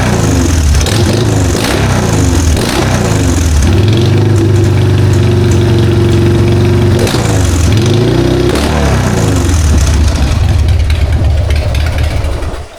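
Harley-Davidson Sportster 1200 V-twin, carbureted through an S&S Super E, running loud and being revved in repeated throttle blips, with the pitch falling and climbing and held high for a few seconds in the middle. It picks up without stumbling on the freshly replaced accelerator pump. The engine sound stops abruptly near the end.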